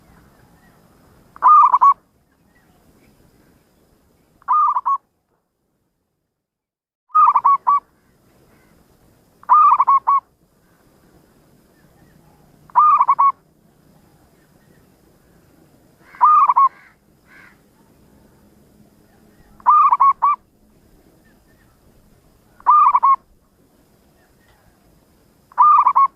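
Zebra dove (perkutut) cooing: nine short, pulsed coo phrases, one about every three seconds.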